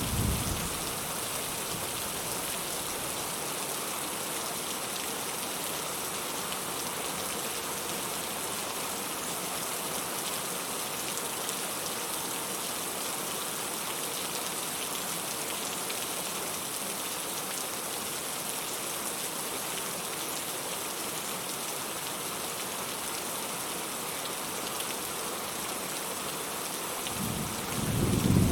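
Steady rain. A thunder rumble dies away in the first second, and another rolls in near the end.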